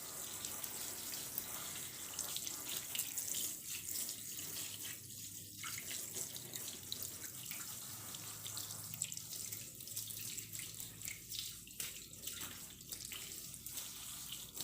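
Handheld bidet sprayer running, a steady hiss of water spraying as it rinses a long-haired cat's fur.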